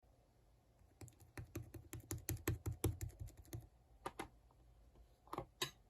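A quick run of light clicks and taps, about four or five a second for two and a half seconds, then a few more scattered ones near the end.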